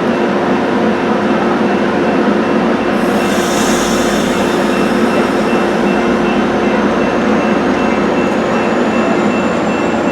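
Train running close by: a loud, steady rumble with a constant hum, a brief hiss about three seconds in, and a faint, slowly rising high whine in the second half.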